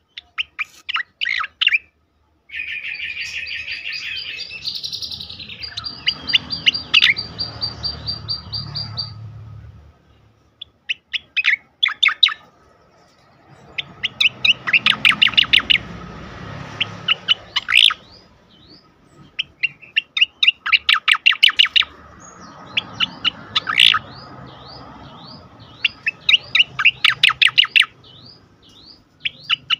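Cucak koreng singing: bursts of rapid, repeated sharp notes ('tembakan' rolls) a few seconds apart, with one long steady trill about three seconds in.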